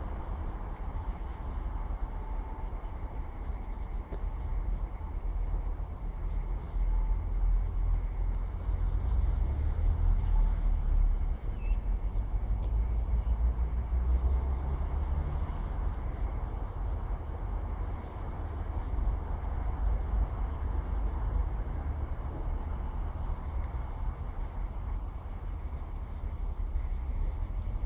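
Small birds chirping in short repeated phrases every couple of seconds, over a constant low rumble.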